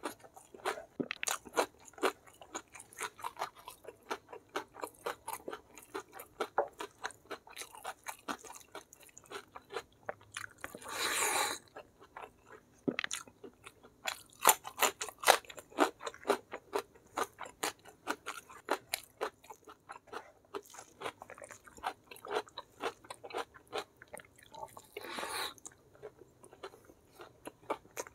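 Close-miked chewing and crunching of food: quick, dense crackling bites with wet mouth sounds. There is a longer rush of noise about eleven seconds in and a shorter one near the end.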